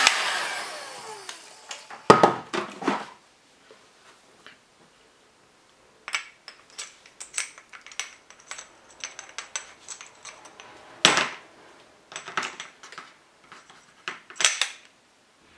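A hot-air blower is switched off and winds down over the first second or so. Then come light metallic clinks and taps from small metal engine parts and tools being handled, in scattered clusters, with louder knocks about two seconds in and again near eleven seconds.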